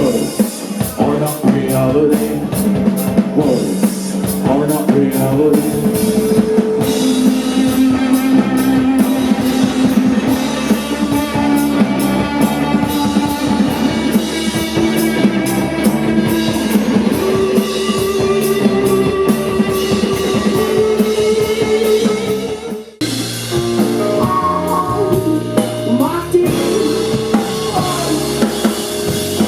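Live indie rock band playing loud, with a drum kit and electric guitar and some singing. The music drops out abruptly for a moment about three-quarters of the way through, then carries on.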